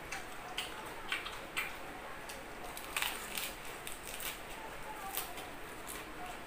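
Crisp crunching and wet mouth clicks of a person biting into and chewing a lettuce leaf wrapped around grilled pork, with the loudest crunch about three seconds in.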